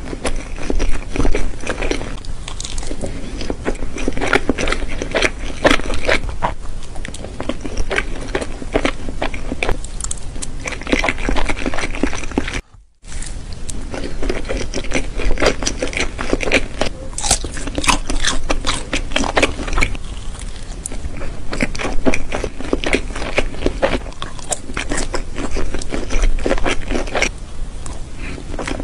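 Close-miked eating: a mouthful of soft pancake being bitten and chewed, with many small wet mouth clicks and smacks and a fork scraping the plate. The sound breaks off briefly to near silence about halfway through.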